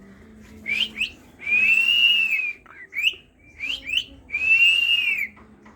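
Pet talking bird whistling: a few short rising chirps, then a long arched whistle about a second and a half in, more quick chirps, and a second long arched whistle near the end.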